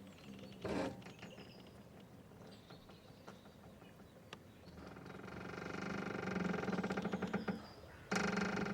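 Boat's rope squeaking and creaking under strain as it tightens, a drawn-out grinding creak that swells over about three seconds in the second half, with another starting near the end and a few faint clicks before.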